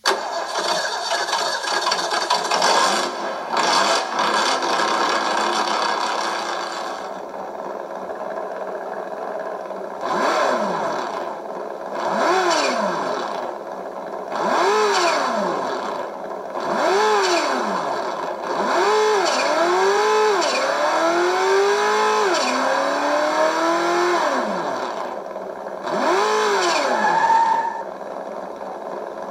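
Simulated engine sound from a radio-controlled model's electronic engine sound system, played through a small speaker with almost no bass. It starts up and runs steadily, then revs up and drops back several times, and in one run it climbs in steps like gear changes.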